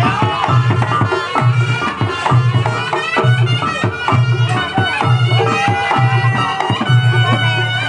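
Reog Ponorogo gamelan accompaniment: drums and gongs keep a steady low beat, a little under one stroke a second, under a reedy wind melody.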